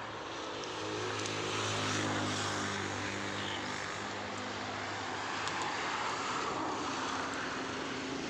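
An engine droning steadily, swelling a little about two seconds in, over outdoor background noise.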